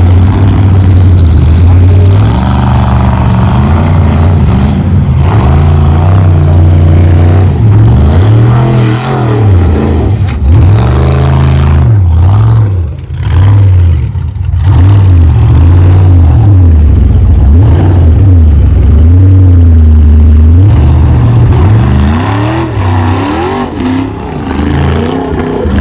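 Formula offroad race truck's engine at full throttle, revving up and down over and over as the driver works the throttle, with a brief drop in the middle before it picks up again.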